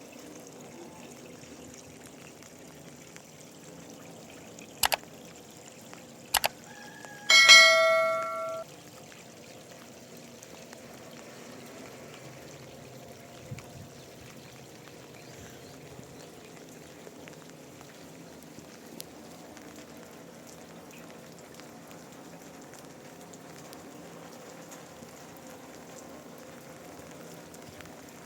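A metallic clang rings out with several pitches about seven seconds in and fades over about a second, after two sharp clicks. A steady quiet noise runs underneath.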